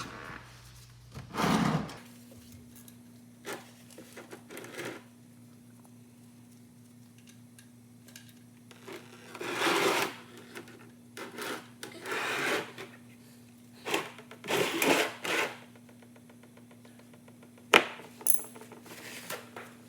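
Scattered metallic clinks and scrapes of an open-end wrench working the oil drain plug loose on a car's oil pan, with a sharp click near the end. A steady low electrical hum runs underneath.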